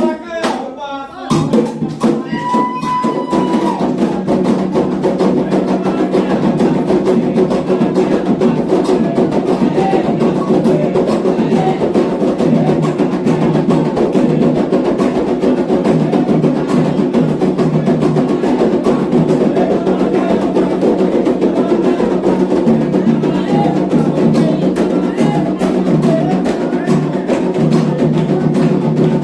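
Candomblé atabaque drums playing a fast, dense, continuous rhythm for the orixá dance, with a bell or wood-like click in the pattern; the full drumming sets in about a second in.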